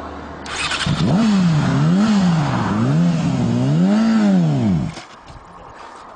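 Motorcycle engine revved up and down about three times, its pitch rising and falling with each blip of the throttle, then dying away as it cuts out near the end. A brief rasping noise comes just before the revving.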